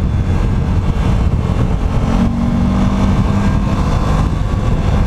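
A motor vehicle engine running amid steady road and wind noise while driving. A steadier engine tone comes in about two seconds in and fades about two seconds later.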